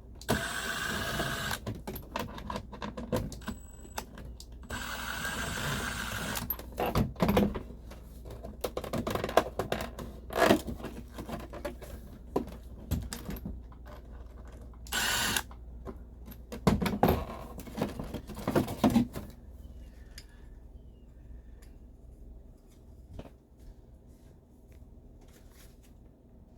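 Power drill-driver running in short spurts of one to two seconds, backing screws out of the dashboard, among clicks and knocks of plastic trim being handled; the driving stops and only light handling sounds remain near the end.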